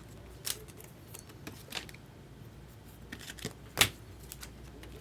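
Trading cards being handled and flipped through: a string of irregular sharp clicks and snaps of card stock, the loudest just before four seconds in.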